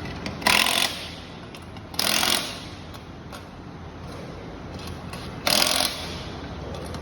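A power tool, likely pneumatic, fired in three short bursts of about half a second each over a steady assembly-line din.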